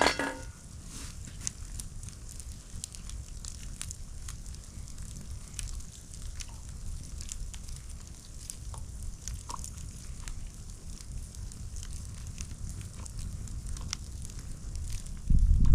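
Wood campfire crackling, with scattered sharp pops and snaps over a steady low rumble; a louder low thump comes near the end.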